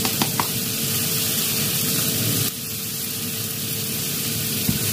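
Garlic, shallots, ginger and red chilli sizzling in hot oil in a wok as they are sautéed, a steady frying hiss that eases a little about halfway through. A few light clicks near the start come from turmeric powder being tapped out of a glass jar into the wok.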